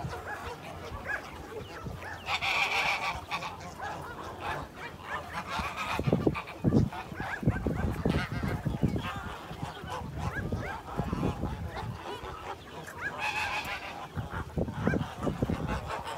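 Many overlapping animal calls in a dense, continuous chorus, with louder bursts of calling about two seconds in and again near the end.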